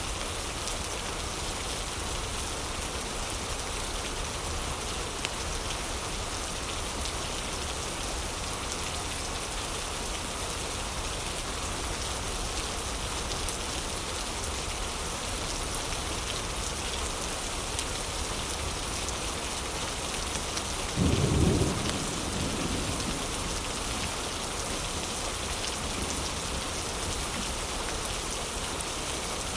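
Steady heavy rain with faint fireplace crackling. About two-thirds of the way in, a sudden low thump about a second long, louder than the rain, fades out over the next couple of seconds.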